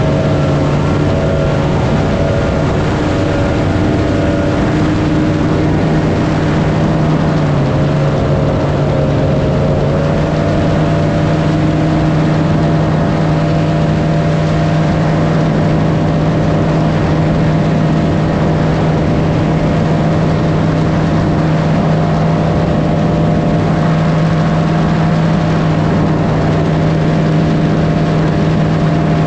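Large engine running at a steady speed over a constant rush of wind or water, its pitch stepping up slightly about seven seconds in and then holding.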